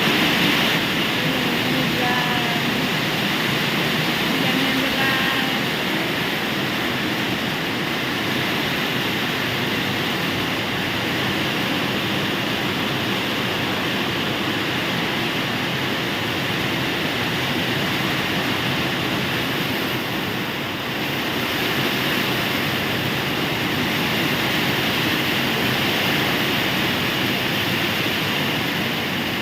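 Heavy rain pouring steadily, driven by wind.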